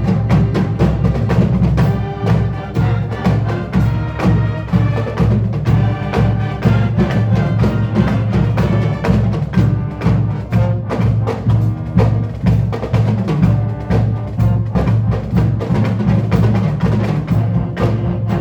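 Loud band music driven by percussion: a dense rhythm of quick drum strikes over held pitched notes and a heavy bass.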